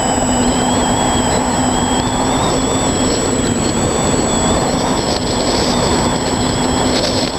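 Quadcopter's electric motors and propellers running steadily in flight: a low hum with a high whine that drifts a little in pitch as the motors adjust speed, over wind noise on the onboard GoPro's microphone.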